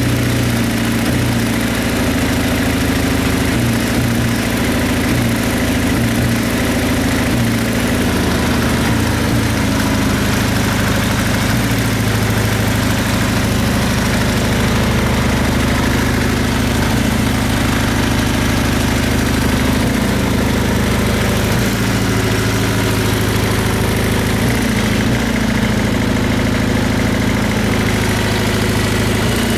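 Kawasaki Z750FX-III (KZ750E) air-cooled inline-four engine idling steadily.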